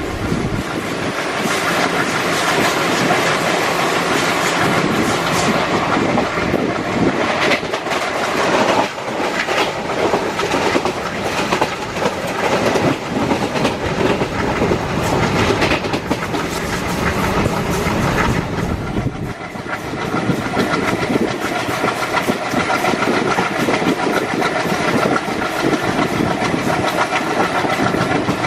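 Indian Railways train passing at speed, its wheels clattering over the rail joints, loud and continuous, with a brief dip in loudness about two-thirds of the way through.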